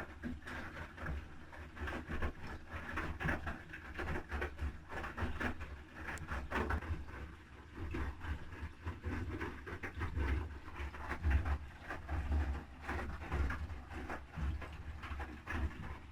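Haier I-Pro Series 7 HW80-B14979 front-loading washing machine in its wash phase: the drum turns and wet laundry tumbles and sloshes in the water, with a low thumping that rises and falls unevenly.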